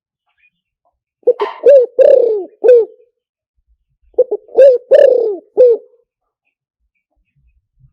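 Spotted dove cooing in two phrases of several low coos each, the longest coo in each phrase sliding down in pitch. It is a recorded dove song played through a loudspeaker as a decoy call to lure wild spotted doves.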